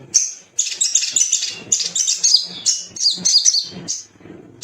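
Little spiderhunter (sogok ontong) calling: a fast, excited run of sharp, high chirps and trills that breaks off about four seconds in.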